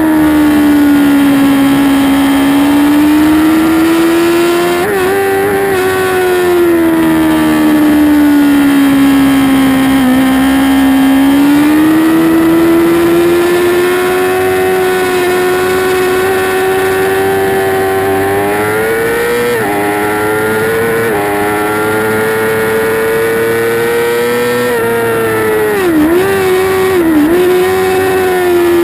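2008 Yamaha YZF-R6's inline-four engine running at high revs under race throttle, heard from onboard the bike. Its pitch sinks and rises as the rider rolls off and gets back on the throttle through the corners, climbs slowly on a long run, and dips sharply twice near the end.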